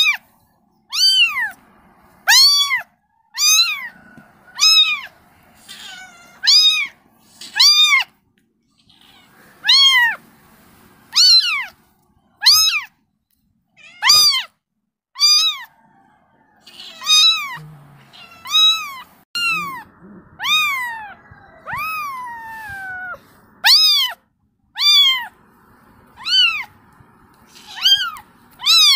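Kitten meowing over and over, about one short meow a second, each rising and falling in pitch, with a few longer meows that slide downward about two-thirds of the way through: a kitten calling for its mother.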